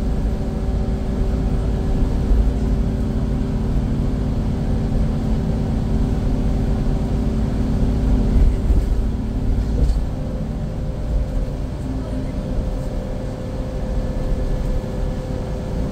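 Scania K410IB coach under way: a steady drone from its diesel engine and drivetrain with a heavy low rumble, its pitch and level shifting a little about ten seconds in.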